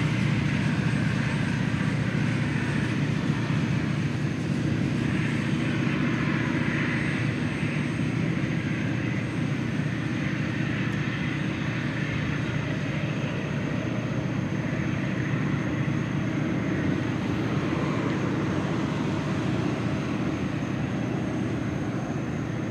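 Freight train cars rolling away on the rails: a steady rumble of steel wheels on track that fades a little as the train recedes.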